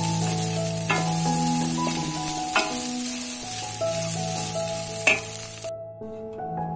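Food frying in a hot pan, a steady sizzle with a few sharp utensil clicks as it is stirred; the sizzle cuts off suddenly near the end.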